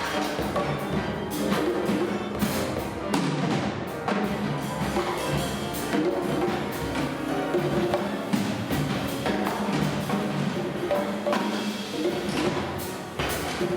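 Free-improvisation ensemble of strings, drums, percussion, marimba and piano playing, with frequent sharp, irregular percussion strikes over short held pitched notes.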